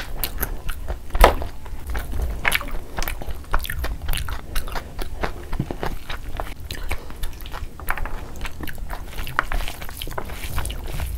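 Close-miked mouth sounds of chewing a mouthful of rice, with wet smacks and the squish of a bare hand kneading mutton kabsa rice. It comes as a run of short clicks, with one louder click about a second in.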